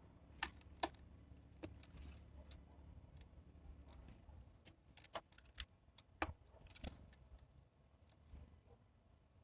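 Irregular sharp taps and clicks of birds pecking at seed on a feeder, faint, with a few louder knocks about half a second in, near one second, around five seconds and just after six.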